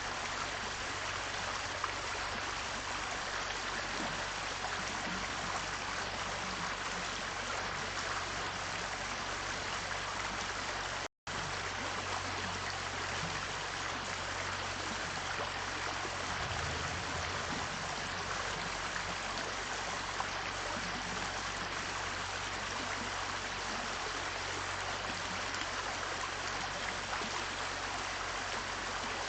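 Steady rush of running water with a low hum beneath. The sound cuts out for a split second about eleven seconds in.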